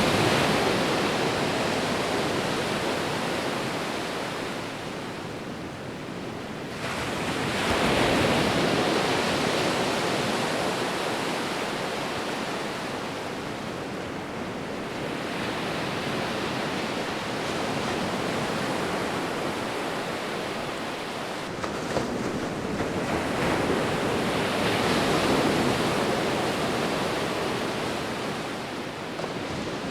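Sea waves breaking and washing onto the shore in a steady hiss that swells and ebbs, a new wave surging in every eight to ten seconds, the sharpest about a quarter of the way in.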